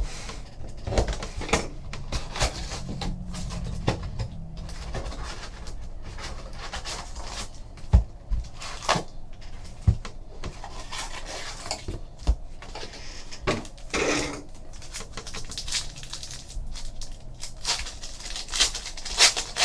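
Trading-card hobby boxes and packs being handled and opened on a table: scattered clicks and taps, a couple of sharper knocks, and short bursts of crinkling wrapper.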